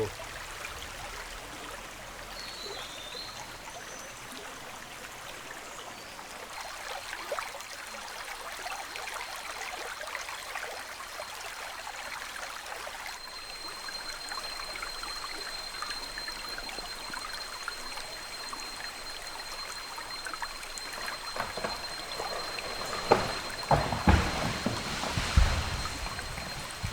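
A small river trickling and splashing over stones. Near the end comes a run of loud cracks and low crashes: a tree being pushed over by a wild Asian elephant.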